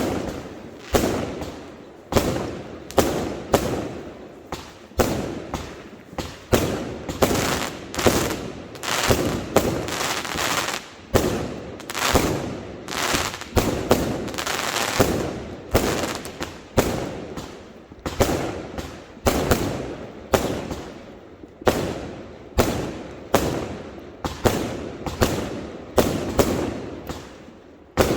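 Fireworks bursting in a steady barrage of sharp bangs, about one or two a second, each fading away with an echoing tail. The bangs come thicker and run together in the middle.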